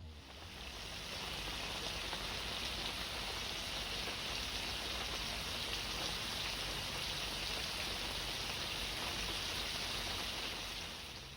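Compact secondary-combustion fire pit burning hard, a steady dense crackling hiss that fades in over the first second and tapers off near the end.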